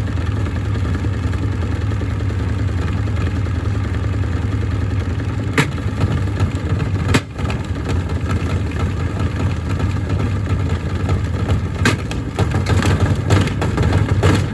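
Gorenje SensoCare washing machine running loaded with heavy bricks: a steady low mechanical drone. It is broken by a few sharp knocks, which come more often near the end as the bricks strike the drum.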